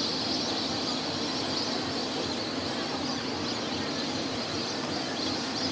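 Steady chorus of a large flock of migratory birds calling together, a continuous clamour.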